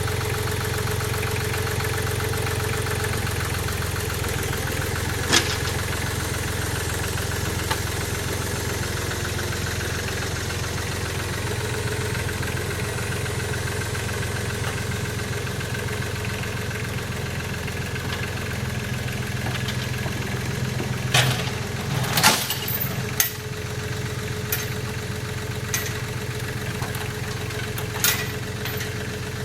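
An engine running steadily at a low idle, with a sharp knock about five seconds in and a few more knocks late on.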